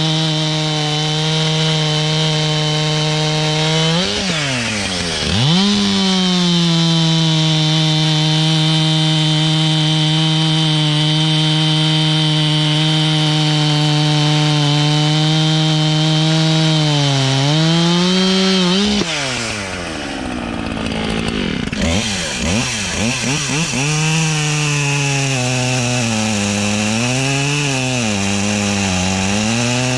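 Two-stroke gas chainsaw running at full throttle while cutting wood, its pitch dipping and recovering as the chain loads up. About two-thirds of the way through it drops off and is blipped a few times. It then bites in again and runs at a lower, wavering pitch under heavy load.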